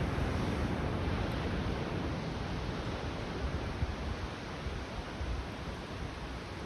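Waves washing on a beach, a steady rushing noise with wind buffeting the microphone.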